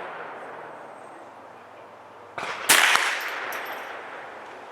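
A shot from a Sig 522 .22 LR rimfire rifle about two and a half seconds in, its sharp crack ringing out and fading over a couple of seconds. The fading echo of a previous shot is heard at the very start.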